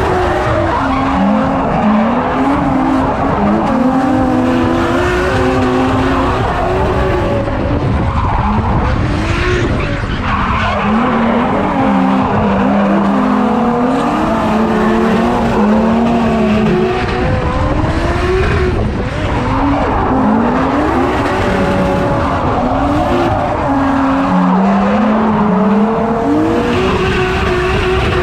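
Drift car driven hard: its engine revving up and down over and over as the throttle is worked, with the tyres skidding and squealing as the car slides.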